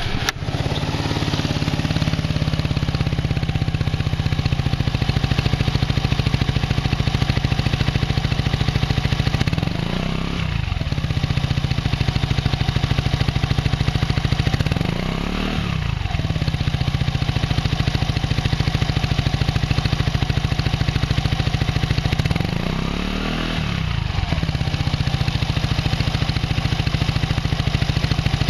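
Suzuki Address V125S scooter's single-cylinder four-stroke engine idling through a BEAMS SS300 aftermarket muffler with its standard baffle fitted. The throttle is blipped three times, each rev rising briefly and dropping back to idle.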